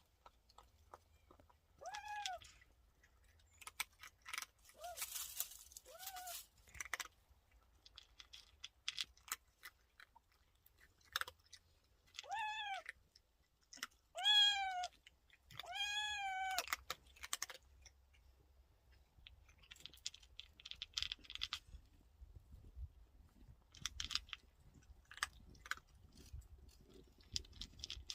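A cat meowing about six times, short rising-and-falling calls spread through the stretch, the three in the middle the loudest and longest. Faint scattered rustling and clicking in between.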